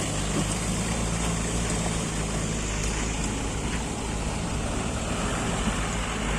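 Mahindra Arjun Ultra 555 tractor's diesel engine running steadily with a low, even hum.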